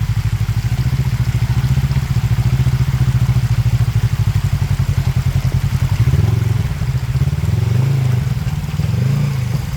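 Off-road vehicle engine running with an even pulsing beat, revved up and down a few times in the second half.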